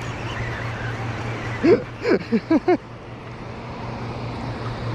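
Steady low hum like distant road traffic, with a quick run of short yelps, rising and falling in pitch, about two seconds in.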